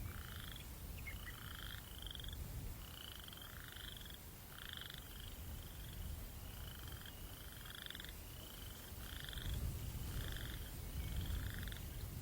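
Frogs calling over and over, short slightly rising calls about once a second, over a steady low rumble of wind.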